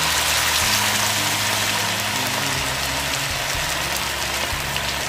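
Flour-battered chicken fillet deep-frying in hot oil in a frying pan: a steady, dense sizzle.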